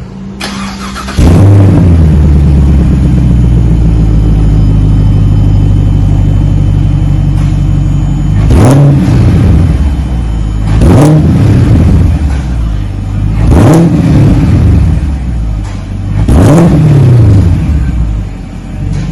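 2024 Chevy Camaro's 6.2 L LT1 V8 through Magnaflow mufflers (factory X-pipe kept up front) starting up about a second in, idling steadily, then blipped four times, each rev rising and falling back to idle. The exhaust has a nice mellow tone.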